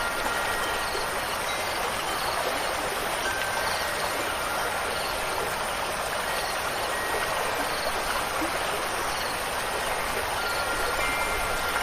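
Steady running water, like a stream or heavy rain, in an even rushing wash. Faint wind chime tones ring at the start and again near the end.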